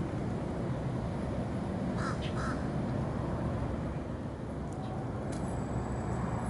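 A bird gives two short calls in quick succession about two seconds in, over a steady low outdoor rumble.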